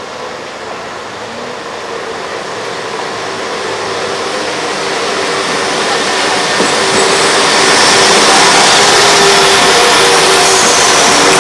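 Train running, its rumble and rail noise growing steadily louder for about eight seconds, then holding steady.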